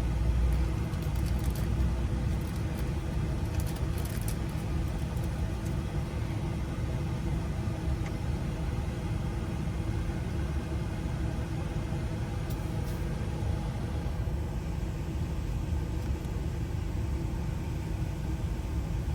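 Steady low rumble of a vehicle engine running, with a few faint light clicks.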